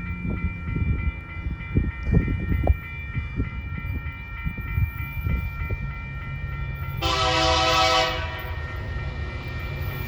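TasRail diesel freight locomotives running with a low rumble, and one horn blast about a second long roughly two-thirds of the way through.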